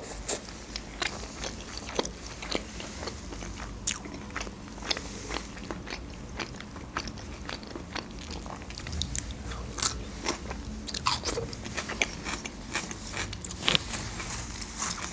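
Close-miked chewing of a mouthful of stir-fried beef and red pepper: many short, irregular mouth clicks and bites.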